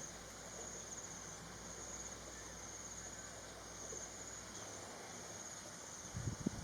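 Steady high-pitched insect trill, pulsing slightly and continuous, with a couple of faint low bumps near the end.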